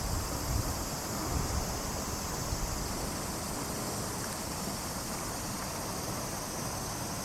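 Steady rushing of running water, with wind gusting on the microphone in the first second.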